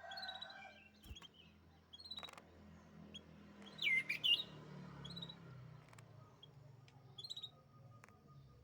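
Canary chirping in short, scattered phrases, with brief high trills and a loud swooping note about four seconds in. A faint low hum runs underneath.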